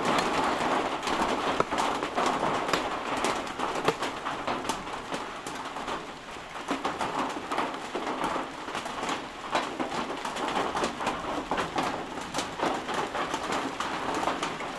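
Heavy rain falling steadily, an even rush dotted with many separate drop hits.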